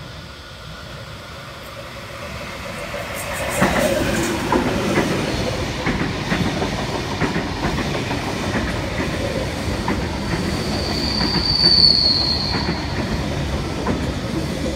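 A NSW TrainLink V-set double-deck electric intercity train running past along the platform on curved track: wheel-on-rail rumble getting louder about three seconds in, with repeated clicks over the rail joints and a high wheel squeal lasting about two seconds near the end.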